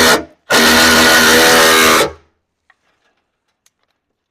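Power drill motor running at a steady speed, stopping just after the start and running again for about a second and a half, as it drives a fastener into the garage door track bracket.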